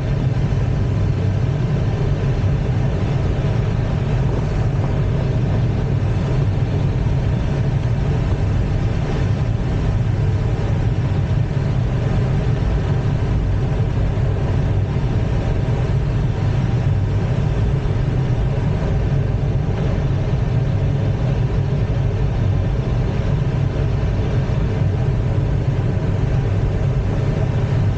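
An engine running steadily at a constant pitch, a low hum with no change in speed.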